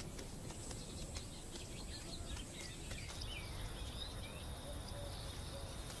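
Faint, sparse bird chirps, mostly in the middle, over a low, steady outdoor background hiss.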